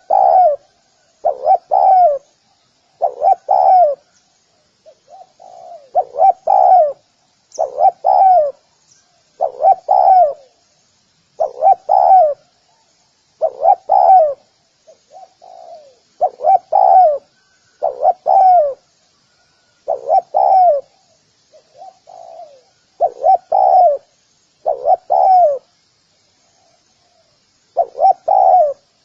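Spotted dove cooing: a steady series of loud coo phrases about every two seconds, each a pair of strong notes led in by a softer one. This is the 'gù' cooing used to excite and draw in wild spotted doves.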